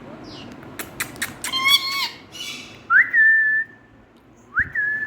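Indian ringneck parakeet calling: a few sharp clicks and a short chattering call, then two whistles that rise quickly and hold steady, about a second and a half apart.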